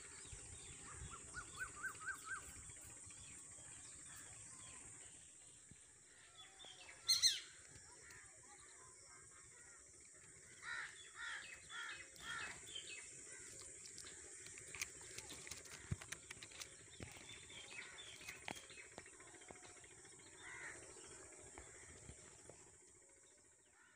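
Birds calling: a quick run of about six short repeated notes near the start, one loud harsh call about seven seconds in, and a run of about five loud repeated notes around eleven to thirteen seconds, with scattered calls after. A steady high hiss runs under them.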